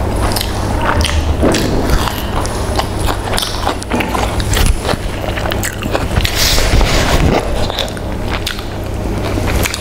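Close-miked chewing of fried chicken, a dense run of wet mouth clicks and crackles, with fingers pulling at the curry-coated meat on the plate. A steady low hum runs underneath.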